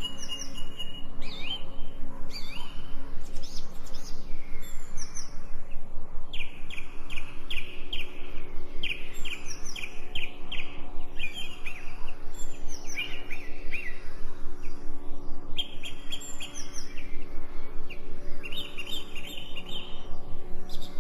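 Songbirds chirping and calling, with runs of quick repeated trill notes, over a faint steady low drone.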